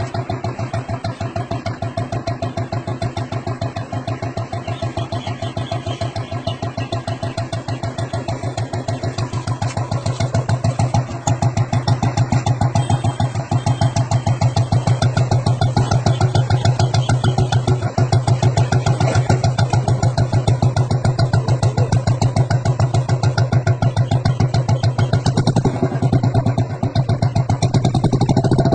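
Royal Enfield Bullet 350's single-cylinder engine running through an aftermarket exhaust silencer, a steady train of evenly spaced exhaust beats. It gets louder about ten seconds in and holds there.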